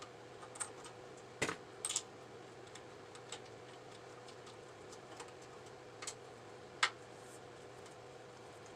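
Scattered sharp metallic clicks and clinks of hand tools working on a motorcycle's handlebar clamp bolts, about seven in all, the loudest about a second and a half in and near the end, over a faint steady hum.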